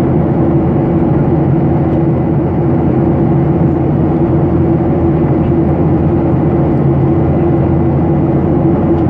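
Steady engine and airflow noise of a Boeing 737-800 in flight, heard inside the cabin: a constant low drone with a hum and no change.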